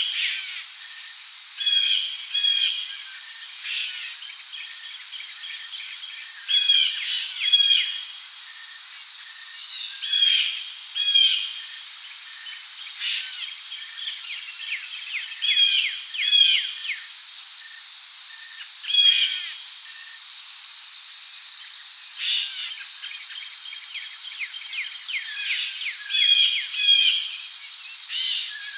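Tropical rainforest ambience: a steady, high-pitched drone of insects with birds calling over it in short chirping phrases of falling notes, repeated every few seconds.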